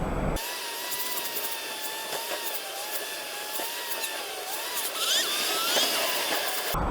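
High-pitched whine of a small motor, wobbling in pitch over hiss, which cuts in suddenly and stops suddenly; a few quick rising sweeps come near the end.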